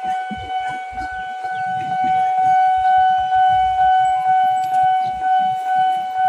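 Electronic railway warning alarm sounding one steady, unwavering tone, over irregular low rumbling.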